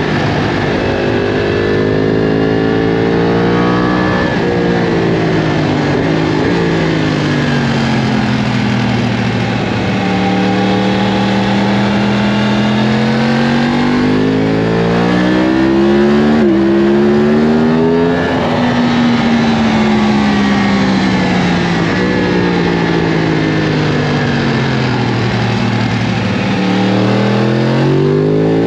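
Yamaha R1 sportbike's inline-four engine at speed on track: revs climb with quick upshifts, drop away as it slows for corners, then climb again, over a steady rush of wind.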